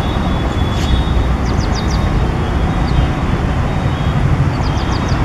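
Indian Railways express coaches rolling past: a steady, loud rumble of wheels on rail, with short high chirps coming in quick groups of about four, twice.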